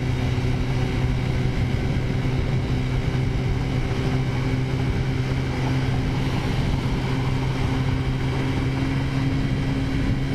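Taotao 50cc scooter's small four-stroke engine running at a steady, even pitch while cruising.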